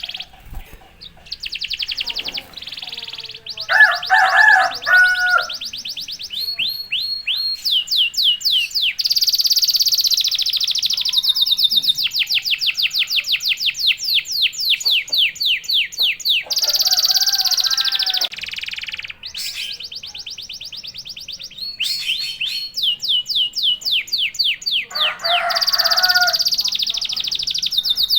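Domestic canary singing: long rolling trills of rapid, evenly repeated high notes, changing speed from phrase to phrase. Twice, a short, louder phrase of lower notes is sung.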